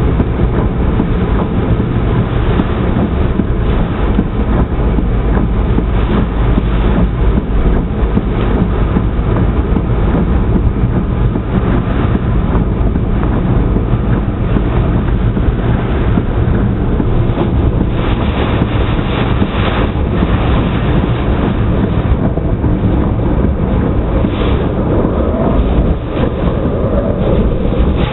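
Typhoon wind buffeting the microphone: a loud, steady rumbling blast that never lets up.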